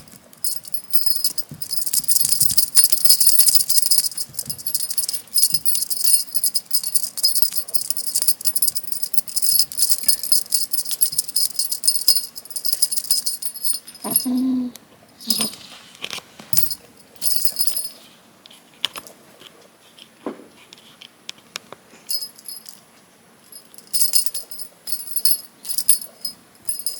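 Small bell jingling and rattling in quick shakes, on and off, with a short animal cry about halfway through.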